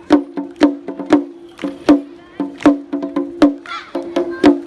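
Shishimai lion-dance festival percussion: sharp, evenly spaced drum strikes about two a second, each leaving a ringing tone, with voices from the crowd briefly near the end.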